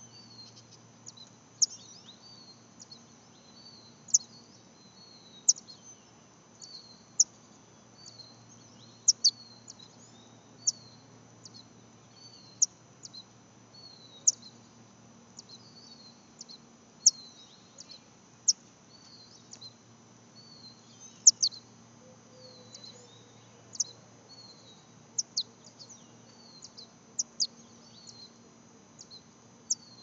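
Small birds chirping: short, sharp, high calls repeated about once every second or so, some single and some in quick pairs.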